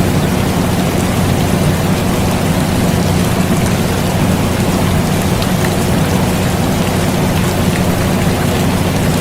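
Steady rain with scattered drop ticks, mixed with the constant low hum of an air conditioner. The sound is even and unchanging throughout.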